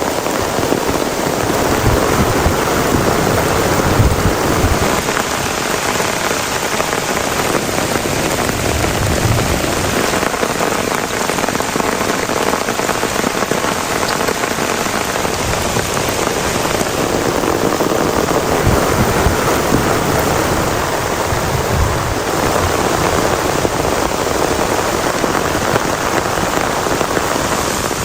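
Heavy rain falling steadily in a dense, even hiss, with a few brief low thuds scattered through it.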